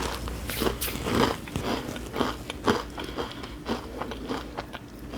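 A person chewing a mouthful of crunchy sweet-and-salty Indian snack mix of sago and rice flakes, with a run of irregular crunches, a couple a second.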